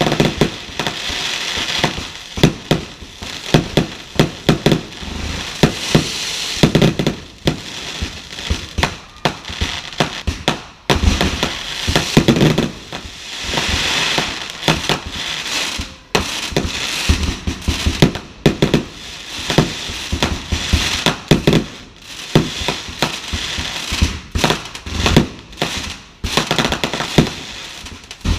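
Fireworks display: a rapid, irregular string of loud bangs from exploding shells, with stretches of crackling between them.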